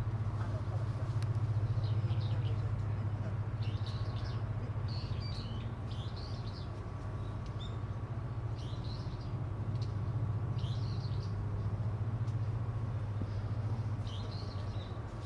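Birds chirping several times, high and brief, over a steady low hum.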